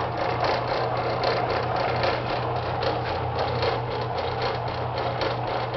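Electric motor of an old Atlas horizontal mill running after being switched on: a steady hum with a fast, even mechanical clatter over it.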